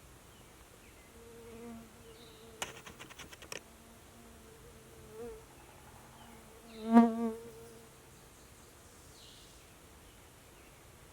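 A flying insect buzzing as it passes close, coming and going several times with the loudest, wavering pass about seven seconds in. A quick run of about eight clicks sounds around three seconds in.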